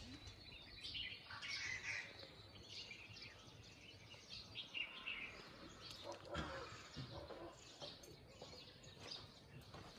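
Faint birdsong: several small birds chirping and calling, busiest about one to two seconds in, over a low steady background hum.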